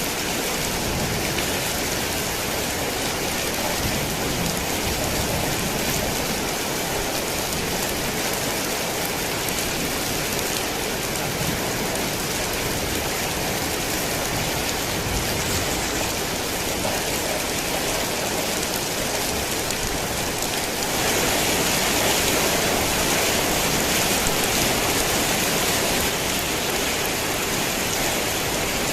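Heavy rain falling steadily, a dense even hiss of drops. It grows a little louder for about five seconds two-thirds of the way through, then settles back.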